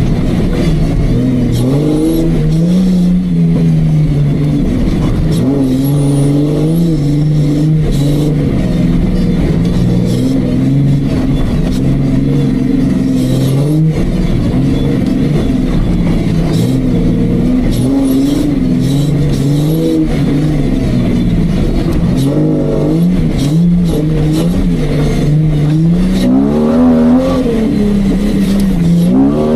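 Off-road Jeep's engine working under load over rough ground, its revs rising and falling again and again as the throttle is worked, with a few knocks from the vehicle. Revs climb near the end.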